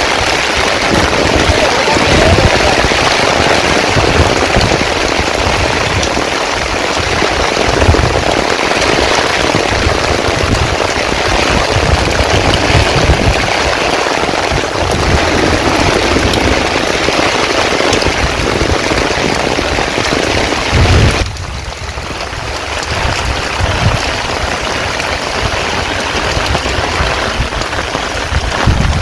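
Heavy rain falling steadily, a dense hiss of drops with irregular low thuds underneath. About two-thirds of the way through it suddenly becomes softer.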